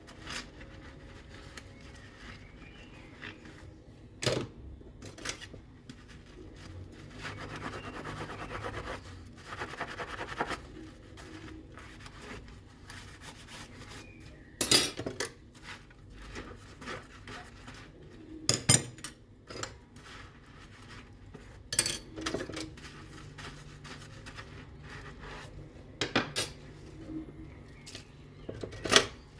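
Dishes and cutlery being washed by hand: scattered sharp clinks and clatters of crockery and metal utensils every few seconds, with a few seconds of steady rubbing, like scrubbing, about a quarter of the way in.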